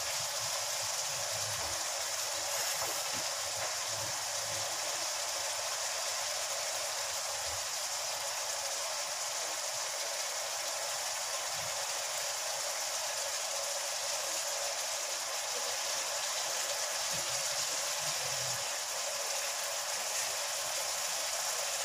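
Chicken and vegetables sizzling in a hot wok as they are stir-fried, a steady hiss, with a spatula turning them now and then.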